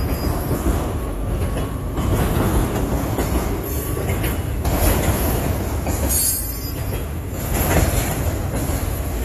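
Freight train cars rolling past close by: a continuous heavy rumble of steel wheels on rail, with a brief high squeal of wheels about six seconds in.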